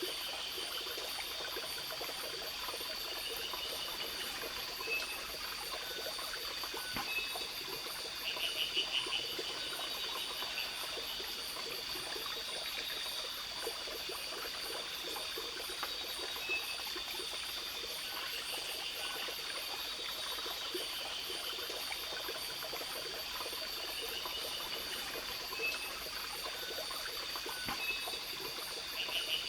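Water trickling under a steady high-pitched insect trill, with a short pulsed animal call about eight seconds in and again near the end.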